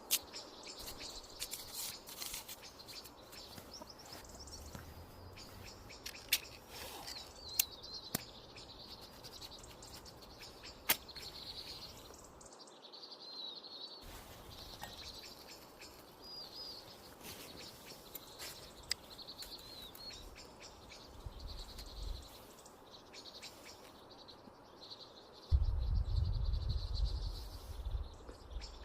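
Birds chirping and singing, with a few sharp clicks or taps early on and a loud low rumble for about three seconds near the end.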